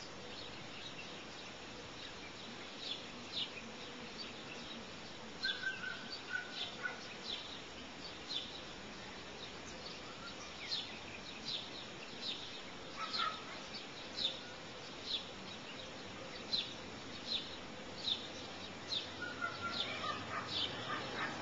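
A bird giving short, high chirps that sweep downward, one every half second to a second. A few lower, longer notes are mixed in.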